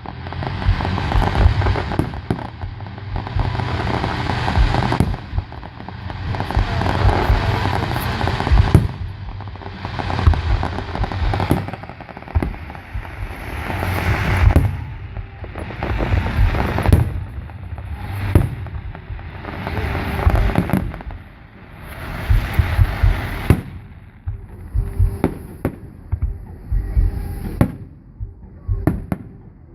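Fireworks display: aerial shells bursting one after another in quick volleys with crackling in between, thinning to scattered sharp pops near the end.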